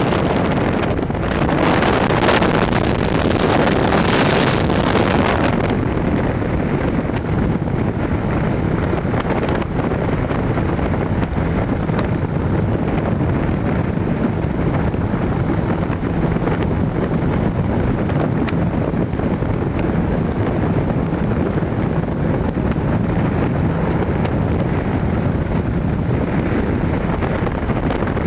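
19-foot Tidewater boat's outboard motor running steadily under way, with wind buffeting the microphone and water rushing past the hull. The wind noise is heavier for the first five seconds or so, then settles into an even rush.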